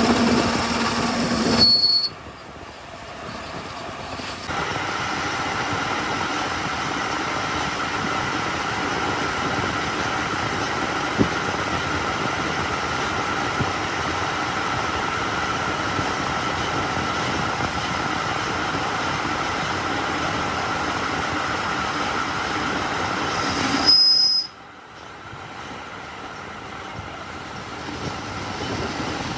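Steady mechanical running noise from workshop machinery, a constant rushing sound with a held tone in it. It changes abruptly twice, about two seconds in and near the end.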